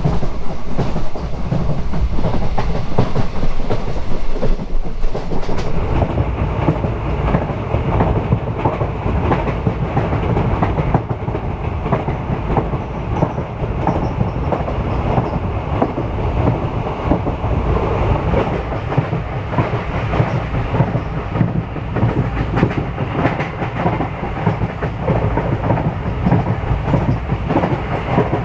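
Express passenger train running along the track, heard from on board: a steady rumble with the wheels clattering over the rails.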